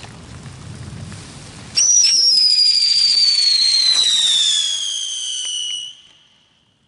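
A whistling firework gives one loud, shrill whistle that starts suddenly about two seconds in and slides steadily down in pitch for about four seconds before dying away.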